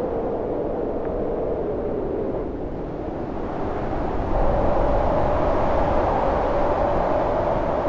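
Howling wind of a snowstorm, a steady rushing noise carrying a hollow whistling tone that rises in pitch and swells louder about halfway through.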